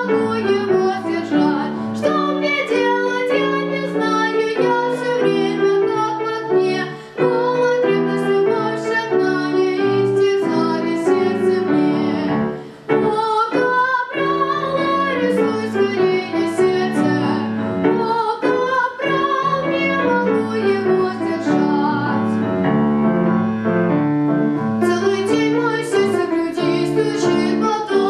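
A song sung by a high voice with vibrato over piano accompaniment, with short breaks between phrases about 7 and 13 seconds in.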